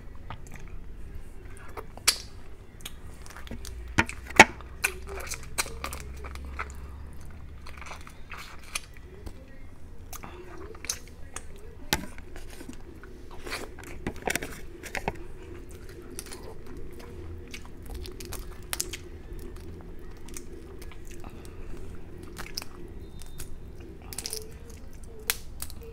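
Close-miked eating of garlic butter shrimp and crab: biting, chewing and crunching, with many sharp cracks of shell. The loudest crack comes about four seconds in.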